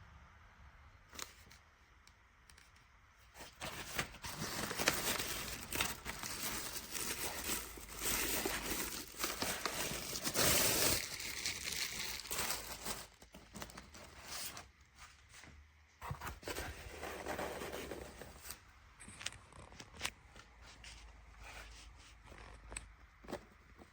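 Packaging being torn open and crinkled by hand, in irregular rustling bursts that are loudest in the middle, with scattered small clicks and handling noises before and after.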